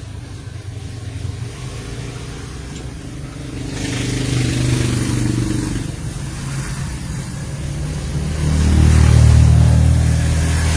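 An engine running, growing louder about four seconds in and again, loudest, near the end.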